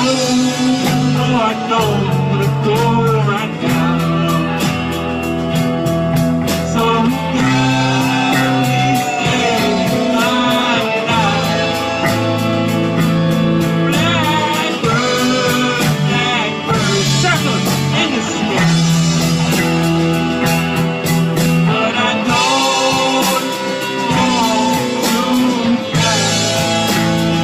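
Rock song: guitar-led band playing, with singing over it.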